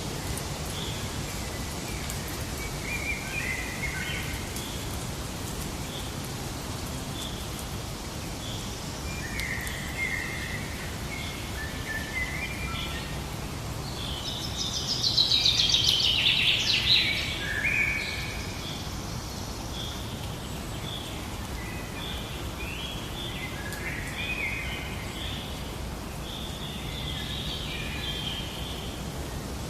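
Birds chirping and singing over a steady low background rush. About halfway through comes a louder, rapid trilling song lasting about three seconds.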